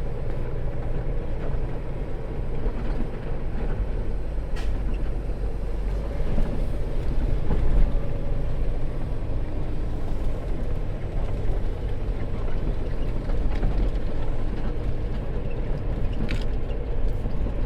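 Semi truck's diesel engine running, heard from inside the cab as a steady low rumble, with a couple of faint clicks.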